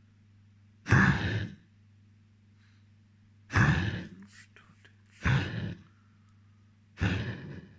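A dog coughing: four short coughs, a second or two apart.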